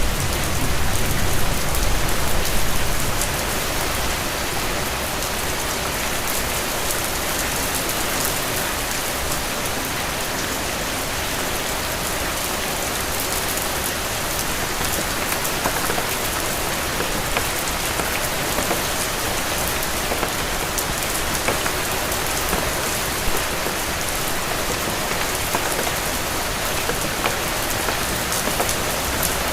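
Steady rain falling, with scattered individual drops ticking; a low rumble under it fades out in the first few seconds.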